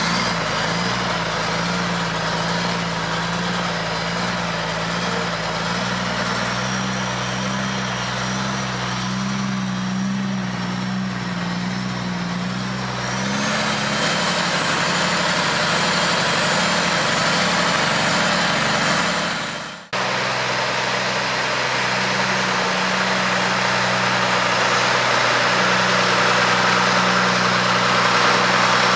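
Mack R600 truck's diesel engine running steadily. Its note shifts about halfway through, then the sound drops out abruptly for an instant before the engine runs on.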